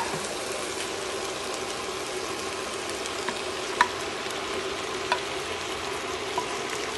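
Beef cubes and green peppers sizzling steadily in a hot frying pan as chopped tomatoes, tomato paste and spices are scraped in from an earthenware bowl. A metal spoon clinks lightly against the bowl a few times.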